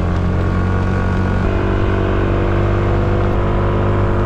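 Motorcycle engine running at a steady speed while riding. A second steady engine note joins about a second and a half in.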